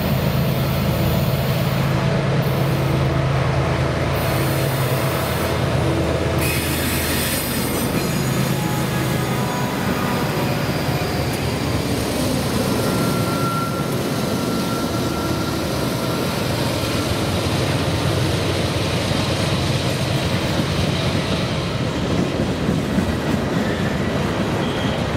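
Diesel freight locomotives pass close by, their engines droning for the first few seconds, then a long string of boxcars rolls past with a steady rumble and brief wheel squeals in the middle.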